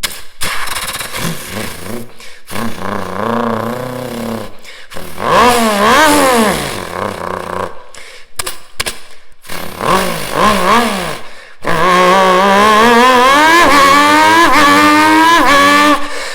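A man's voice imitating a three-cylinder motorcycle engine: a buzzy idle, then short revs that rise and fall, and from about twelve seconds in a long climb in pitch like accelerating up through the gears.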